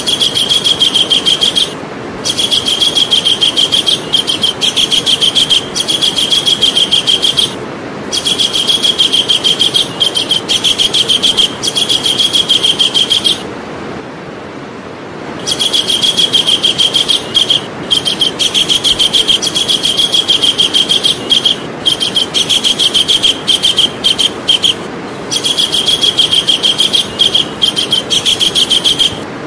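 Javan kingfisher calling: long runs of fast, repeated high notes, broken by short pauses and a longer pause about half-way through. A steady hiss lies underneath.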